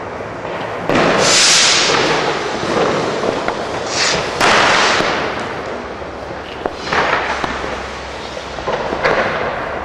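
Fireworks going off: a run of loud bursts, the biggest about a second in and around four to five seconds in, with more near seven and nine seconds. Each fades over a second or two, over a steady din of smaller distant bangs.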